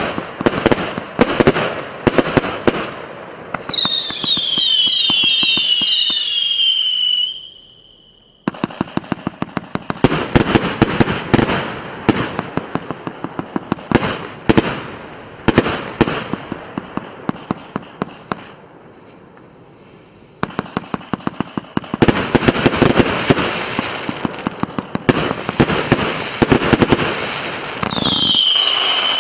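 Russian Fireworks RC906 'Russian Knights' fireworks going off: rapid runs of bangs and crackling bursts, with a cluster of falling whistles about four seconds in and again near the end.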